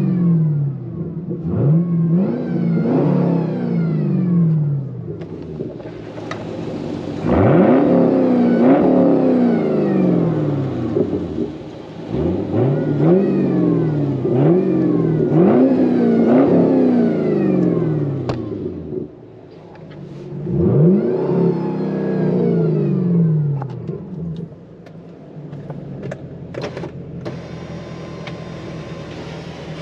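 Camaro engine with a freshly completed exhaust (X-pipe extended through to new tips) being revved in place: a series of sharp blips, each rising quickly and falling back, with a short lull in the middle. After about 24 s it settles to a quieter steady run.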